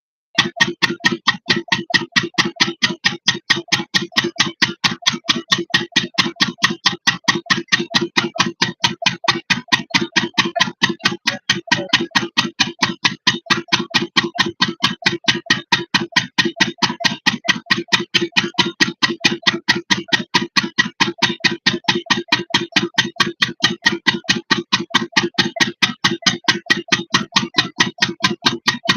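8hp single-cylinder diesel engine of a water pump set running at a steady speed, each firing stroke a sharp, even knock in a fast, regular beat. It starts abruptly just after the beginning.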